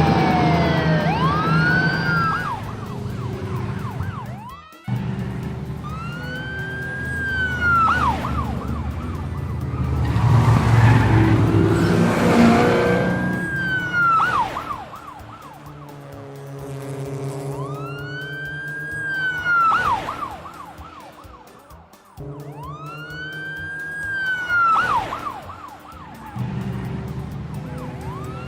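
Cartoon police car siren wailing in long rising-and-falling sweeps that repeat about every six seconds, over a low steady engine hum.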